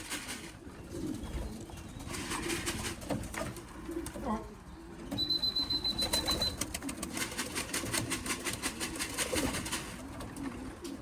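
Racing pigeons cooing in the loft. A short, steady high beep sounds about five seconds in, and a rapid run of clicks follows in the second half.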